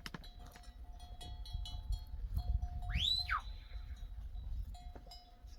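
Flock of sheep with bells on: small bells tinkle and clink on and off over a low rumble. About three seconds in comes one high call that sweeps up and falls away, and right at the end a sheep starts to bleat.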